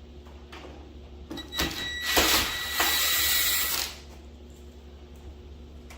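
A few knocks, then a small motorised tool, most likely a cordless drill/driver, runs for about a second and a half with a steady high whine before stopping sharply.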